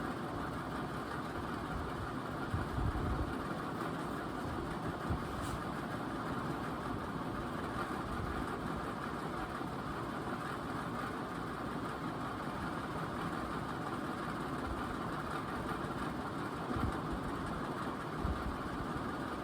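56-inch NuTone Pro line ceiling fan coasting down after being switched off: a steady whoosh of air and running noise, with a few faint knocks.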